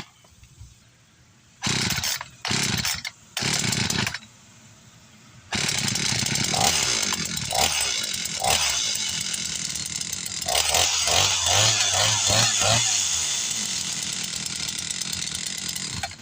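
Echo CS-440 two-stroke chainsaw being pull-started after a new clutch and sprocket: three short bursts on the pulls, then the engine catches about five seconds in and keeps running, revved up and down several times.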